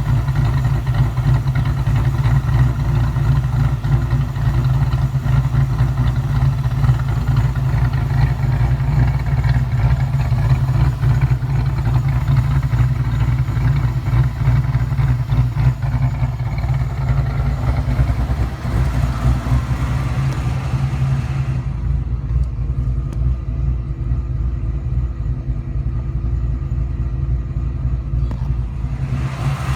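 1995 Ford Mustang GT's 5.0 L V8 idling steadily through single Forza Flow mufflers, a deep, even exhaust note at a lowered idle speed.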